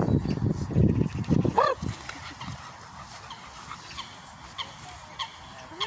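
Birds calling: one rising call about one and a half seconds in, then scattered short high chirps. Loud low jumbled noise fills the first second and a half.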